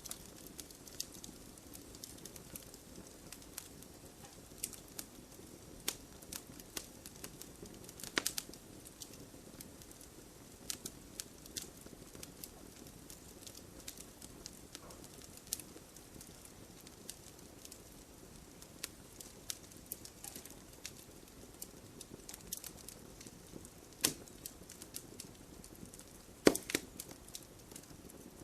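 Campfire crackling: a soft low hiss of burning wood under irregular sharp pops and snaps. There are a few louder pops, one about eight seconds in and several close together near the end.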